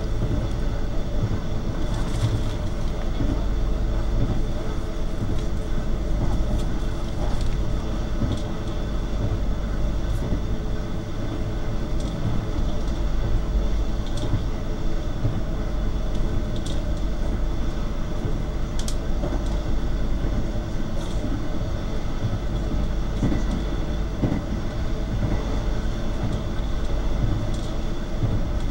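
Steady running rumble of the Argo Bromo Anggrek express passenger train at speed, heard from inside the coach: wheels on the rails and the carriage's running noise, with a steady hum underneath and a few faint clicks.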